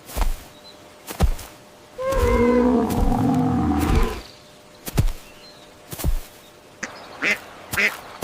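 Farm animal calls: one drawn-out, pitched call lasting about two seconds in the middle, among a few short dull thumps, then short quacks of a duck near the end.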